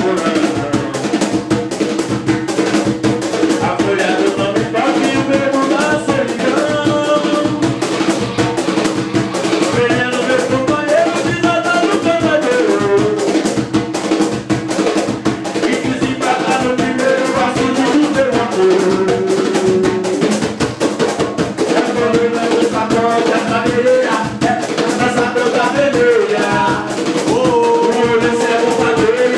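A band playing music: a steady drum beat with rattling shaker percussion under a melody line that wanders up and down.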